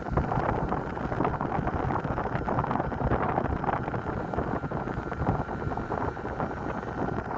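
Wind buffeting the microphone in irregular gusts over the low, steady rumble of a passenger ferry underway.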